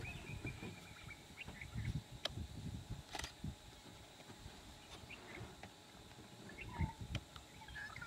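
Faint scattered bird chirps and short whistles in dry forest, one falling whistle near the start, over low rumbling bumps, with two sharp clicks about two and three seconds in.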